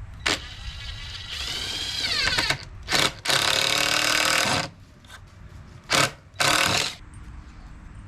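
Handheld power tool run in several bursts: quick blips followed by longer runs, one of them winding down in pitch as the trigger is released.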